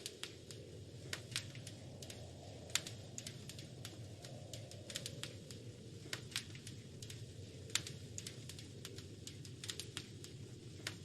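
Wood fire crackling in a fireplace: irregular sharp pops and snaps, a few louder than the rest, over a steady low rush of the flames.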